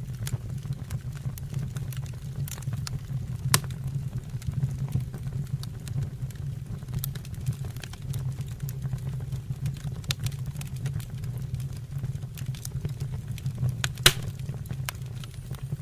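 Wood fire burning in a stove or fireplace: a steady low rumble of flames with frequent small crackles and two louder sharp pops, one about three and a half seconds in and one near the end.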